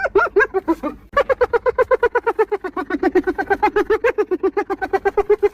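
Spotted hyena giggling: a long run of rapid high-pitched whooping notes, about eight or nine a second, each note bending up and down, with a brief pause about a second in.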